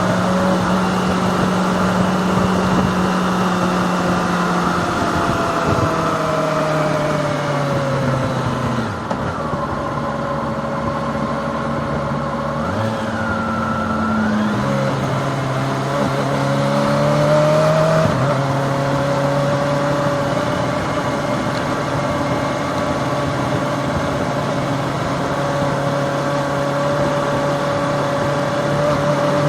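Kawasaki ZX-25R's 250cc inline-four engine running under way. Its pitch holds steady for stretches and steps down and up a few times as the rider changes speed.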